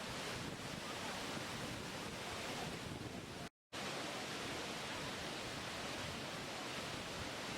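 Steady rushing water, an even hiss and rumble with no distinct events, briefly cutting out to silence about halfway through.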